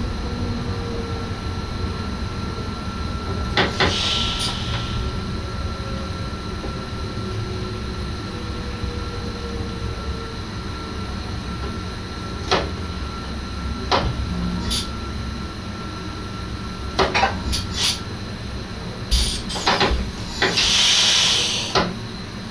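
NS SGM electric multiple unit heard from its driver's cab while running: a steady low rumble with scattered sharp clicks and knocks, and a faint falling motor whine over the first half. There are short bursts of hiss about four seconds in and again near the end.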